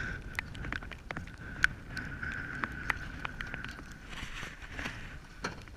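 Irregular sharp ticks of raindrops striking close to the microphone, over a steady faint high whine and a low rumble of background noise.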